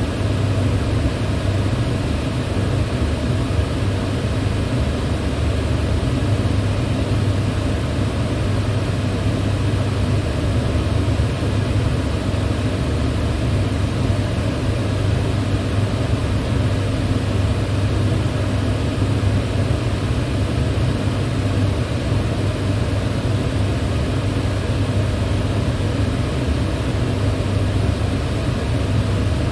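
Electric fan running steadily: a constant whoosh of moving air with a low motor hum underneath.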